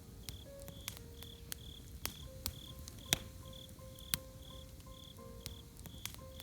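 Campfire crackling with irregular sharp pops, over a cricket chirping steadily about twice a second.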